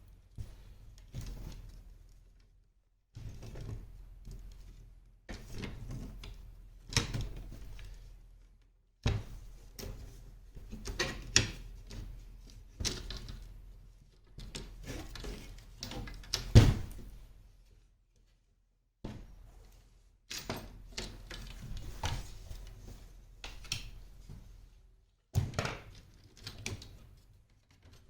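Clattering and knocking of wooden parasol arms and their fittings being handled and fitted back into the parasol's head, with one sharp knock a little past halfway. The sound stops dead a few times.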